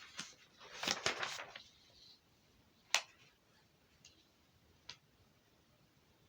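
Faint handling noises: a brief rustle about a second in, then a sharp click about three seconds in and a smaller click near five seconds.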